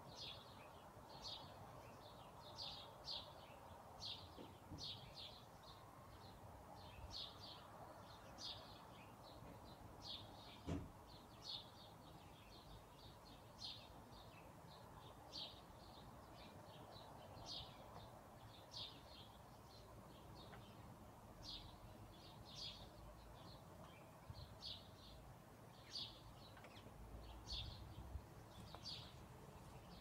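Birds chirping in a quiet forest: short, high chirps repeating every second or two, over a faint steady hiss. A single sharp click sounds about eleven seconds in.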